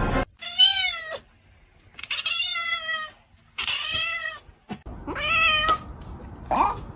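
A cat meowing: four drawn-out meows, each rising and then falling in pitch, with a short gap between them, and a brief rising call near the end.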